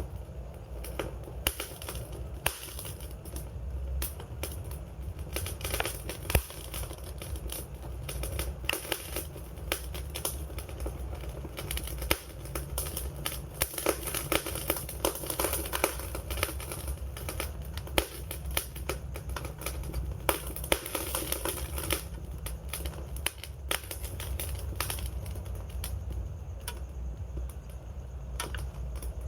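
Wood fire burning, with dense irregular crackles and pops over a low steady rumble of flame.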